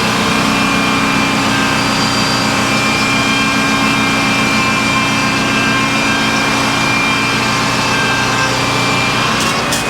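Sawmill machinery running steadily under load, with an engine's steady hum throughout. A few sharp clicks come near the end, just as the sound drops off.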